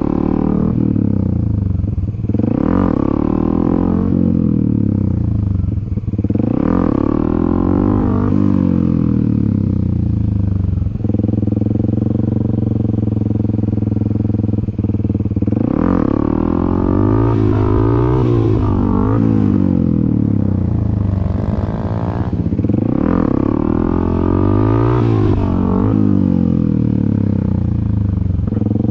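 Dirt bike engine being revved again and again, its pitch climbing and dropping with each twist of the throttle as the front wheel is popped up for wheelies. About eleven to fifteen seconds in it runs more evenly at a lower pitch before the revving picks up again.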